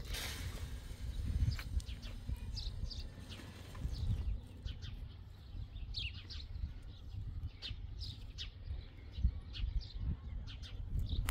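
Small birds chirping: many short, high calls scattered through, over a low rumbling background.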